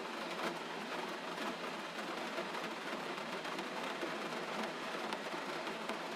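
Gentle rain falling steadily, an even hiss with faint scattered drop ticks.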